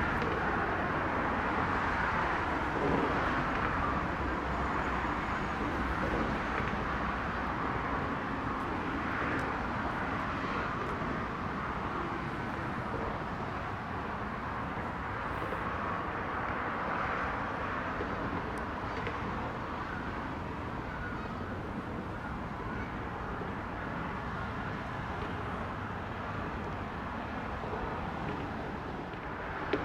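A train rolling past: a steady rumbling noise of wheels on rails with no horn, easing off slightly over the half-minute.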